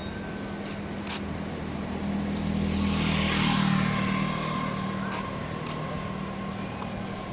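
A motor vehicle passing close by: its engine hum and tyre hiss swell to a peak about three and a half seconds in, then fade away.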